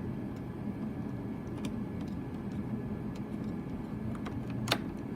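A steady low background hum, with a few faint ticks and one sharper click near the end as small plastic parts of an RC boat's radio gear are handled.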